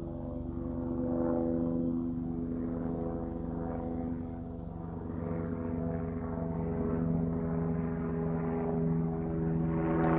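Airplane flying overhead: a steady engine drone made of several even tones that swell and fade slightly.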